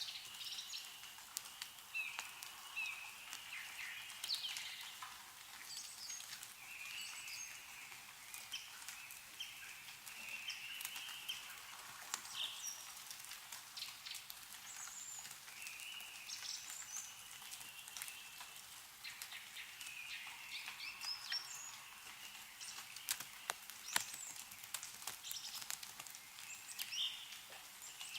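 Meltwater dripping from snow-covered trees, with scattered drops and patters throughout and one sharper drop about 24 seconds in, while songbirds chirp repeatedly.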